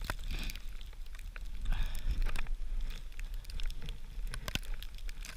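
Small kindling fire crackling in scattered sharp pops, over a low rumble of wind on the microphone.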